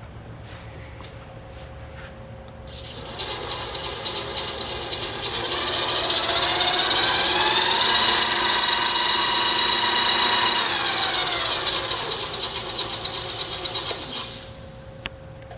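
Powermatic Model 1150 drill press motor, driven through a variable-frequency drive, running up and down: a whine that climbs in pitch for about five seconds as the spindle speeds up, holds steady, then falls away as it slows to a stop near the end.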